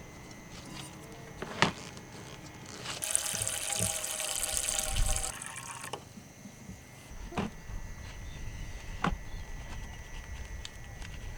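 Water poured into a container for about two and a half seconds, starting about three seconds in. A few sharp clicks come before and after it.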